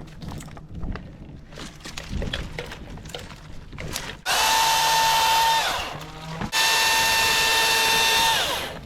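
Cordless electric chainsaw run in two short bursts, each a steady high whine that starts sharply and sinks in pitch as the trigger is let go. Scattered knocks and rustling come before the first burst.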